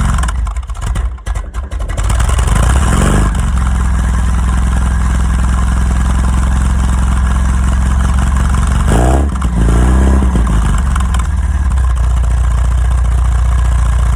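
1973 MGB's 1.8-litre B-series four-cylinder engine running just after a cold start, uneven for the first couple of seconds with its choke released too early, then settling to a steady idle. A brief rev comes about nine seconds in.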